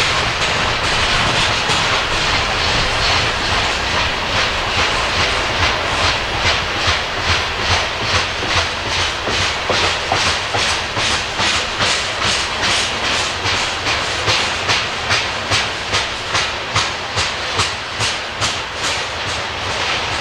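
Coal train cars rolling past, their steel wheels clicking over the rail joints about twice a second over a steady rumble and rushing noise.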